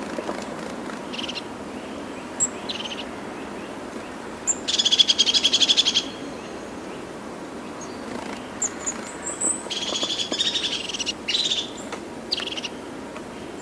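A bird calling: short high notes and two fast rattling trills, the first about five seconds in and the second near ten seconds, over a steady background hiss.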